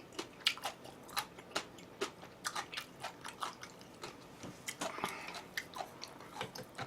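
Close-miked chewing of crunchy food: an irregular run of sharp crunching clicks, a few a second.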